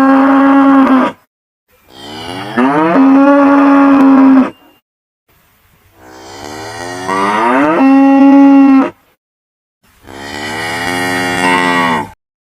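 Cow mooing over and over: long, loud moos that rise in pitch and then hold steady, the end of one at the start and three more after it, each cut off abruptly with silence between.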